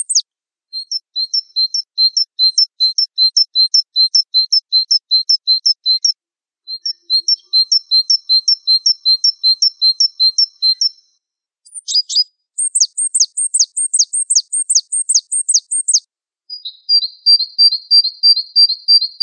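Gelatik wingko songbird singing: fast series of short, high, sharp notes, about three to four a second, in phrases of a few seconds split by brief pauses. The note type changes between phrases, from paired notes to down-slurred whistles and then to a quicker trill near the end.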